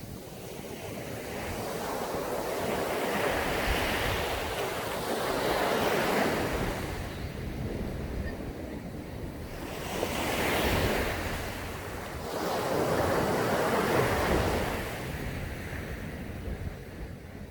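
Waves breaking and washing up a sandy beach in repeated surges, each swelling and falling away over a few seconds, with wind on the microphone.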